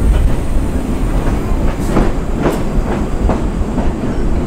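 Train running along the track: a steady rumble of wheels on rail with a few sharp clicks as they pass over rail joints, the clearest about two and a half seconds in.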